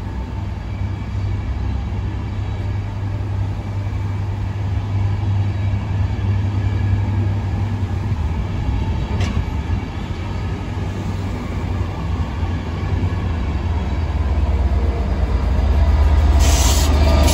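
Train of Mark 4 passenger coaches rolling slowly past, a steady low rumble and drone that grows louder over the last few seconds as the Class 67 diesel locomotive at its end draws near. A short hiss of air comes near the end.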